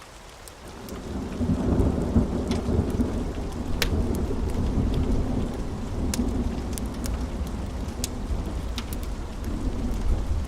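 Thunder rumbling over steady rain. The low rumble swells in about half a second in and rolls on, loud, over the hiss of the rain, with scattered sharp ticks from drops or crackles.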